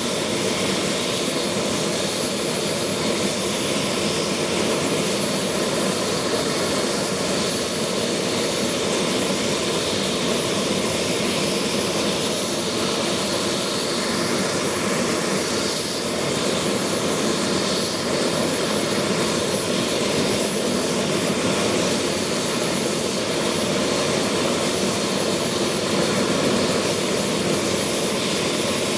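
A Bell 222 helicopter's twin Rolls-Royce 250-C30G turboshaft engines running steadily, with a thin high turbine whine over a constant rush.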